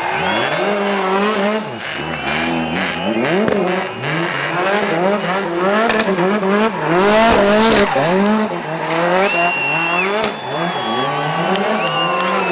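Rally car engine revving hard, its pitch climbing and dropping over and over, with tyres squealing a few times in the second half as the car slides and spins.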